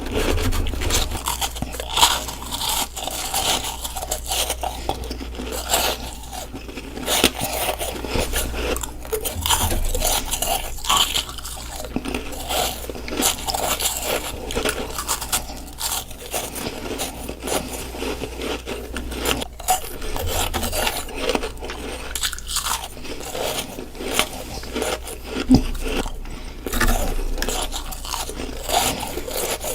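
Close-miked bites of hard ice crunching, one after another in quick, irregular succession, with some chewing and scraping between them.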